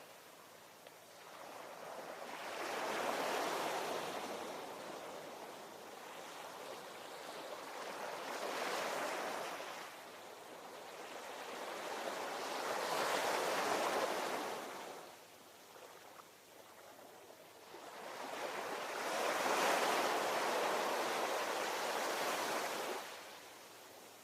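Ocean waves breaking and washing on the shore in four surges, each swelling and then fading, about every five or six seconds; the last surge is the loudest and drops off sharply near the end.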